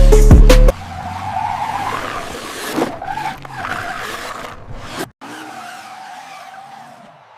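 Car tyre squeal and skid, a wavering squeal over hissing noise, following loud electronic music that cuts off abruptly less than a second in.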